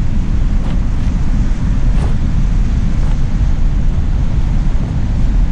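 Wind buffeting the microphone, a loud steady low rumble, mixed with surf. A few faint taps come through from handling the tent.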